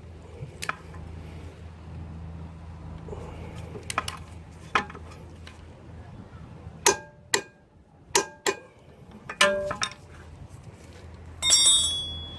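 Metal tools and parts clinking and knocking in a series of sharp, separate strikes, with a louder ringing metallic clang near the end.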